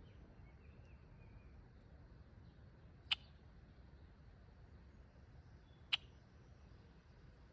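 A bird giving short, sharp chip calls, two of them about three seconds apart, over a quiet yard background.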